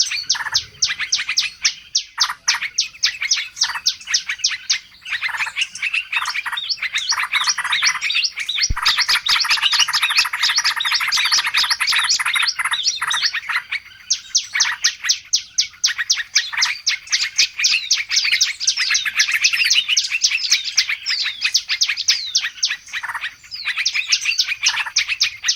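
Dense chorus of many small songbirds chirping and twittering, with fast runs of short, high, down-sweeping notes overlapping one another. It is a 'ribut' (noisy) bird-lure call of the kind played to draw wild birds in.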